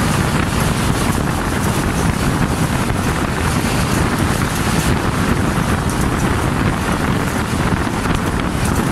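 Wind rushing and buffeting the microphone held outside a fast-moving passenger train, over the steady running rumble of the train on the track.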